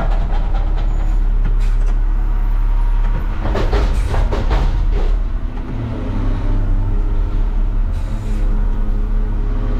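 Front-loader garbage truck's diesel engine running under load, with a cluster of metal bangs and clatter about three to five seconds in as a steel dumpster is dumped over the forks and strikes the truck's metal. The banging is loud because the container was held flat instead of angled, so metal hits metal squarely.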